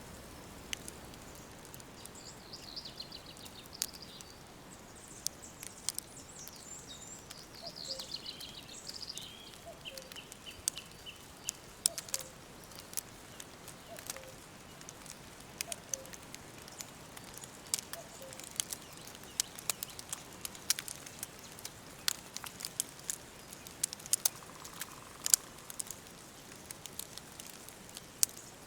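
Wood fire crackling with frequent sharp pops, under songbirds chirping and trilling through the first ten seconds or so.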